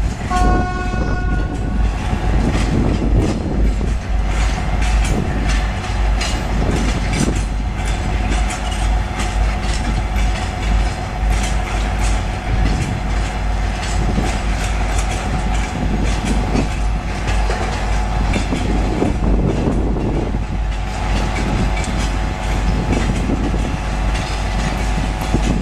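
Train hauled by a 2M62U diesel locomotive moving past: a short horn blast near the start, then a steady rumble with wheels clicking over the rail joints.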